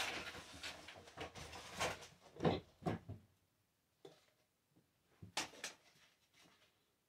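Hand-sanding and handling work on a rusty sheet-metal wood stove: scratchy rubbing and a few knocks for about three seconds, then near quiet with a couple of light clicks.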